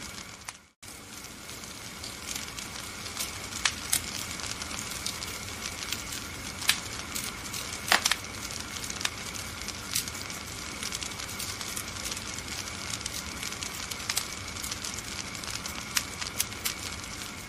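Wood fire burning in a fireplace: a steady hiss with irregular sharp crackles and pops. The sound drops out briefly about a second in, then resumes.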